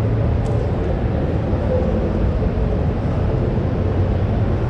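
Steady din of a busy exhibition hall: an even low rumble with a faint, indistinct hubbub of distant voices over it.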